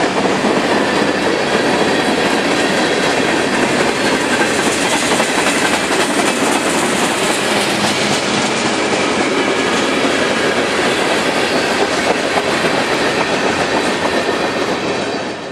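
A freight train rolling past, a loud, steady rumble and rattle of railcars on the track that cuts off suddenly at the end.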